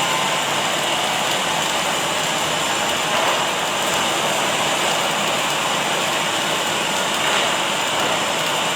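Automatic welding machine at work: a steady hissing, crackling arc noise with a faint high whine, unchanging throughout.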